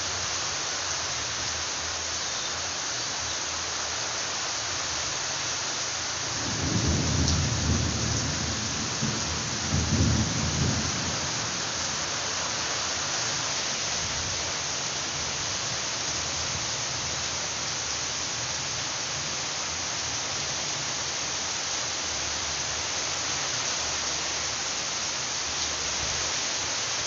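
Heavy rain falling on garden plants and ground, a steady hiss. A low rumble of thunder swells twice, about six to eleven seconds in.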